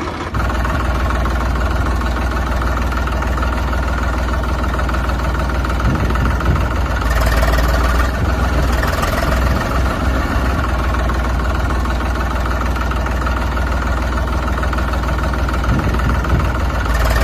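An engine idling steadily with a deep low rumble.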